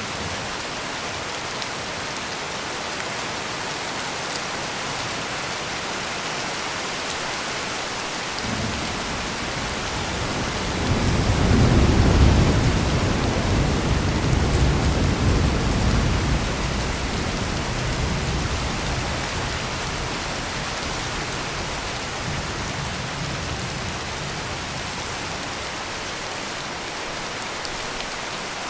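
Steady heavy rain with a low roll of thunder that builds about a third of the way in, peaks soon after, and rumbles away over several seconds.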